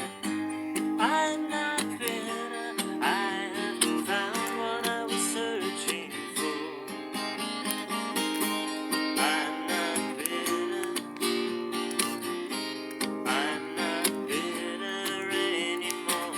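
Acoustic guitar strummed steadily in an instrumental passage of an unplugged song, with a wavering higher melody line rising over the chords now and then.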